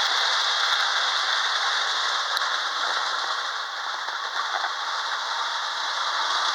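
Lionel model trains running around the layout's track, a steady noise of wheels and motors that dips slightly about four seconds in.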